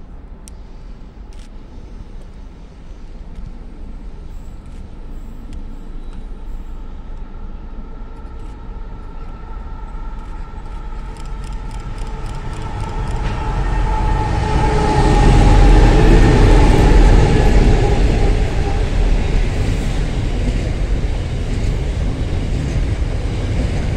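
Slow diesel-hauled freight train approaching and passing. The locomotives' engine drone grows steadily and is loudest about two-thirds of the way in as they go by, then the container wagons roll past with a steady rumble.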